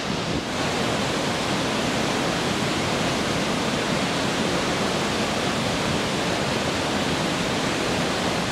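The Blue Nile Falls (Tis Issat) pouring: a steady rush of falling water, a little louder from about half a second in.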